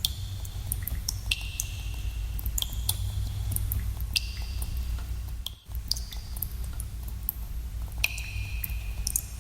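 Water drops falling in a cave, each landing as a sharp plink, many with a short ringing tone, at an irregular pace of one or two a second over a steady low rumble. The sound drops out briefly about five and a half seconds in.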